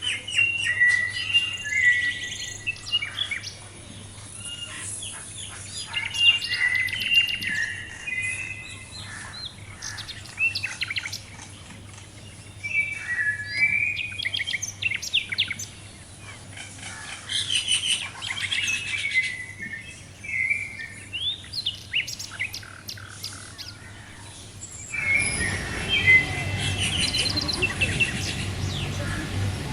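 Small songbirds chirping and singing in repeated bursts of short whistled notes and trills. About 25 seconds in, a steady background noise comes up under the birdsong.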